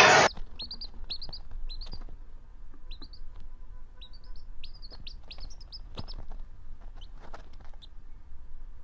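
Small bird chirping: a string of short, high chirps, some in quick runs of two or three, stopping shortly before the end.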